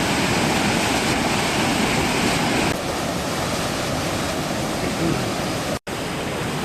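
Mekong River waterfall: a large volume of turbulent water crashing through the falls, a steady loud rush. It dips slightly in level a few seconds in and cuts out for an instant near the end.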